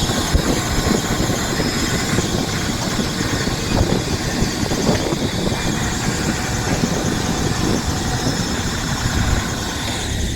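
A boat's engine running steadily, with a dense low rumble.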